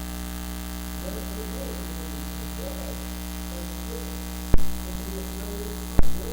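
Loud, steady electrical mains hum and buzz from a faulty audio feed, with a faint, muffled voice underneath. Two sharp clicks come about four and a half seconds in and again a second and a half later.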